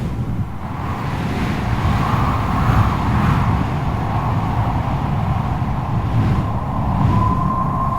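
Strong wind blowing with a deep rumble and a noisy howl. Near the end a thin, steady whistle sets in.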